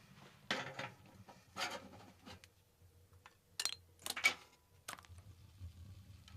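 Objects being handled: two short rubbing scrapes, then a quick run of sharp clicks and clinks in the second half.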